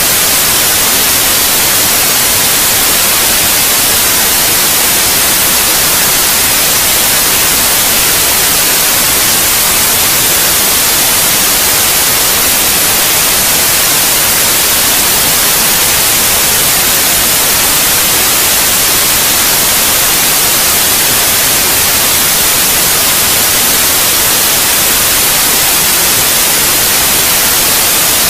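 Loud, steady white noise: an even hiss, brightest in the high end, with no change or events, played as a sleep aid for babies.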